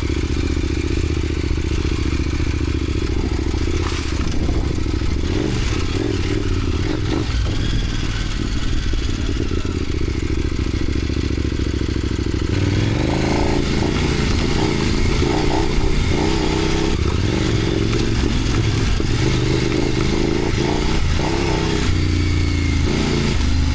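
Off-road motorcycle engine running while riding a dirt trail, with clattering and scraping from the ride. About halfway through, the engine note rises and pulls harder as the throttle opens.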